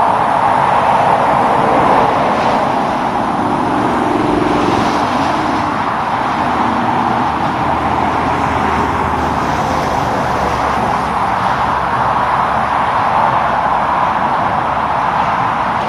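Steady road traffic: tyre and engine noise from passing vehicles, with a faint engine drone standing out about four seconds in.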